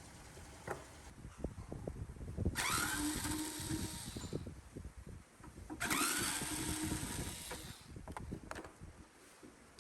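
Handheld electric power tool run in two short bursts, each spinning up with a rising whine, with small knocks and handling clicks between them.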